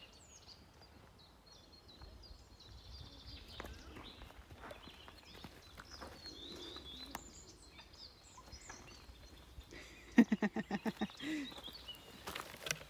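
Quiet forest ambience with songbirds chirping faintly, then a loud short run of about eight rapid pitched pulses about ten seconds in, followed by rustling near the end.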